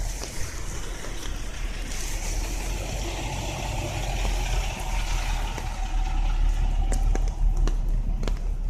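A big truck driving past, its low engine rumble and road noise building louder through the second half. Rain ticks on an umbrella over it.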